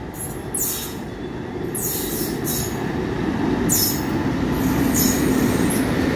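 Express passenger train hauled by an electric locomotive running through a station at speed. Its rumble grows louder as the locomotive goes by, with short sharp high wheel-on-rail noise about once a second.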